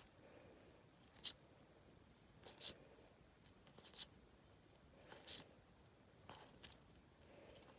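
Faint, brief scrapes of Match Attax trading cards sliding against each other, about one every second and a bit, as cards are flicked through one at a time.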